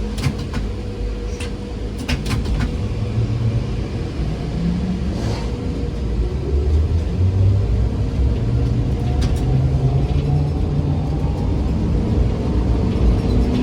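ZiU-682G trolleybus running, heard from inside the cabin: a steady low rumble and hum, with a faint rising whine as it picks up speed about halfway through. A few sharp clicks and rattles come through, including a cluster about two seconds in.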